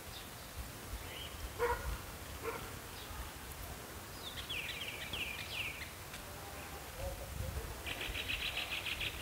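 Small birds calling: a run of quick falling chirps about four seconds in, then a fast string of repeated chirps near the end, over a low rumble.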